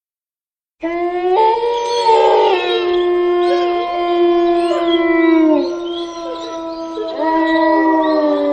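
Canine howling: a long, steady howl starting about a second in, held for several seconds and dropping in pitch at its end, with other howls overlapping, then a second long howl near the end.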